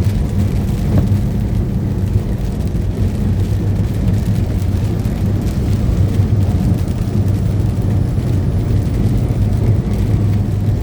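Steady low drone of a truck's engine and road noise heard inside the cab while driving at an even speed.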